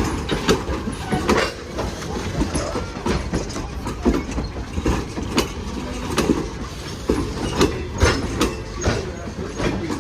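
A train rolling past, its wheels clacking over the rail joints, over a low rumble.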